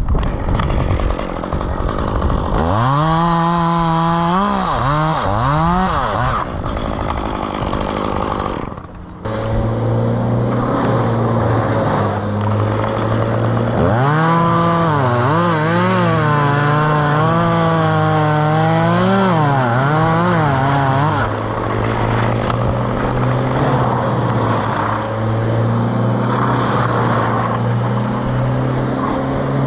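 Two-stroke chainsaw revving up and down in repeated bursts of throttle as it cuts. A second engine runs at a steady pitch underneath from about a third of the way in.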